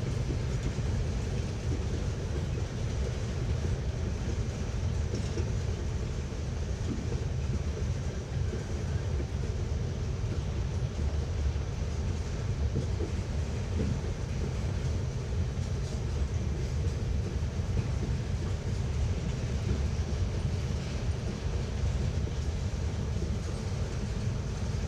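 Freight train rolling past, a steady low rumble of wheels on the rails that holds evenly throughout.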